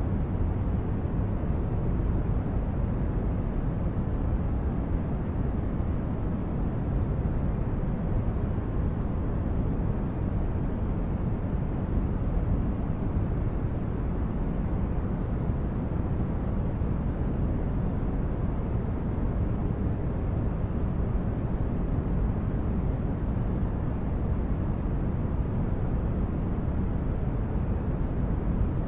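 Synthesized spaceship-interior ambience: a steady, deep rumbling noise like brown noise, with no changes or distinct events.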